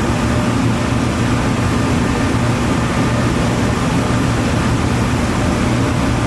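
Heavy power-plant machinery running with a loud, steady drone and a deep, even hum.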